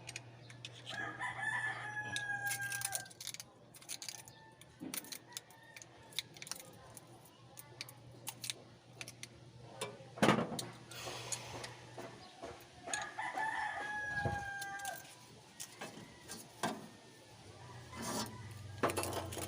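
A rooster crowing twice, about a second in and again near the middle, each crow about two seconds long. Scattered sharp clicks and knocks and a steady low hum run underneath.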